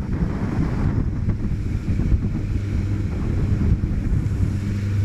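Wind buffeting the microphone and water rushing past a small boat under way, over the steady low hum of its motor, which grows stronger later on.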